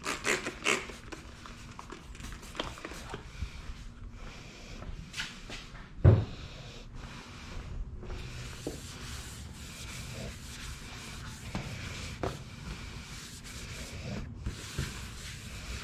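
A cloth wiping over a primed plastic bumper cover with wax and grease remover: an uneven rubbing and scuffing, with one louder knock about six seconds in.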